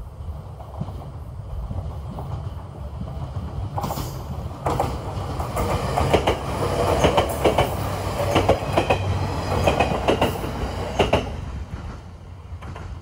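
A train passing close by: a low rumble builds, then from about four seconds in the wheels clack over the rail joints in quick repeated clusters, loudest midway and dying away about two seconds before the end.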